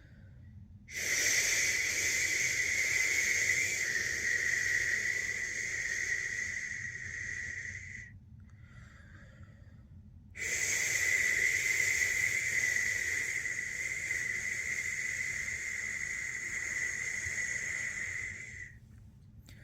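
A person making long, steady 'shhh' shushing sounds to soothe a newborn to sleep. There are two shushes of about seven and eight seconds, with a short pause for breath between them.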